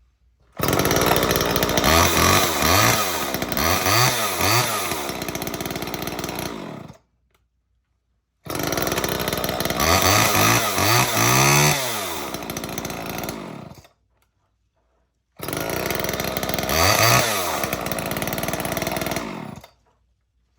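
Gasoline two-stroke chainsaw running and being revved, its pitch rising and falling with the throttle. The sound comes in three stretches of several seconds each, and each one cuts off abruptly.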